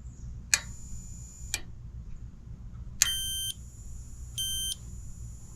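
Electronic beeping: one longer tone lasting about a second, starting half a second in, then short beeps repeating about every 1.3 s from about three seconds in, each beep a single pitch.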